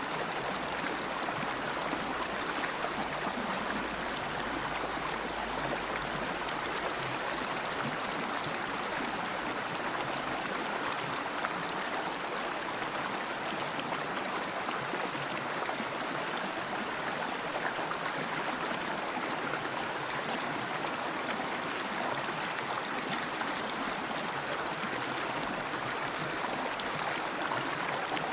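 River water flowing and rushing over stones, a steady even sound.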